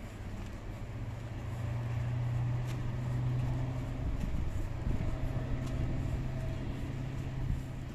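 A motor vehicle engine running with a steady low hum, swelling a little about two seconds in and easing off again after about four seconds.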